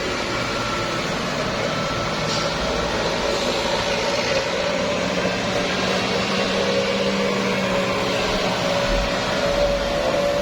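Truck engines and road noise running steadily, with a held humming tone that rises slightly near the end.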